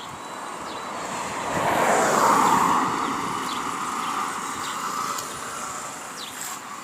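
A vehicle passing by: a rushing noise that swells about two seconds in and then slowly fades.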